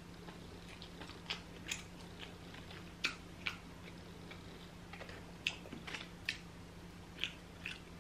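Close-up mouth sounds of a person eating grilled fish: short, wet smacking clicks from chewing, coming irregularly about once or twice a second over a faint steady hum.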